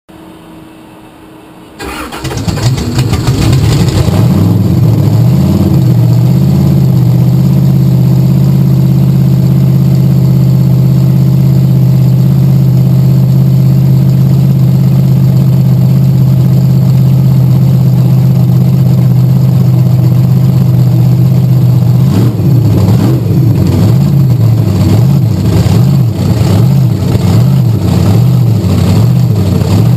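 Bigfoot 10 monster truck's engine starting about two seconds in, then running loud and steady. From about 22 s its note rises and falls in a regular rhythm, about once a second.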